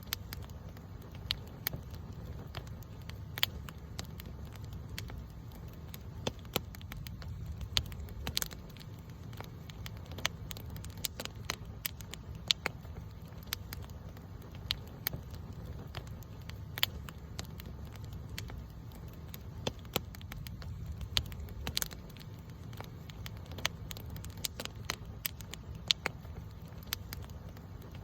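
Campfire crackling: irregular sharp pops and snaps from burning wood over a steady low rumble of the flames.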